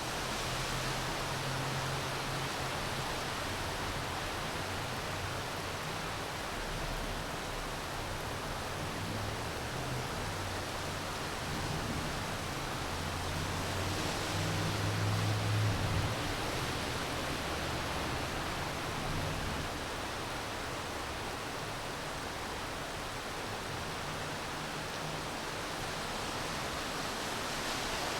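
Steady rain falling, an even hiss. A low rumble swells in the middle and then fades.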